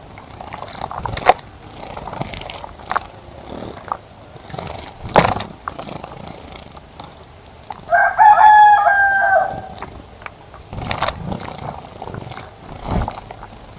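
A rooster crows once, about eight seconds in: one loud call of about a second and a half, held on a fairly level pitch. Around it are scattered sharp knocks and faint high chirping.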